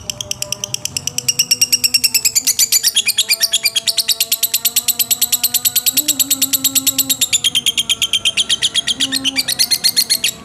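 Lovebird singing a long, unbroken, rapid chattering trill of high notes, about ten a second, its pitch drifting slowly. It is the kind of lure song used to get other lovebirds to answer. A fainter, steady lower tone runs underneath.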